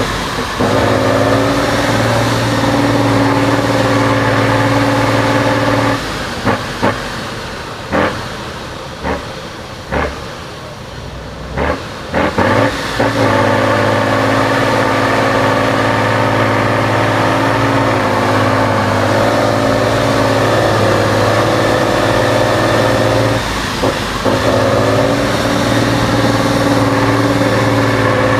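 Off-road mud truck's engine running hard, held at steady high revs. It falls off for several seconds about a quarter of the way in, with a few sharp knocks, then comes back up to the same steady pitch for the rest.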